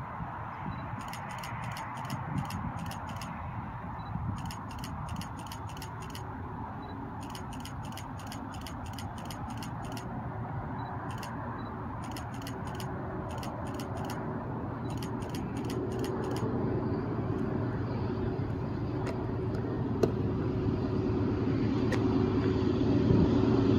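A train's diesel locomotive approaching from a distance: its rumble and steady engine drone grow louder through the second half. Faint rapid high ticking comes and goes in the first half over steady outdoor background noise.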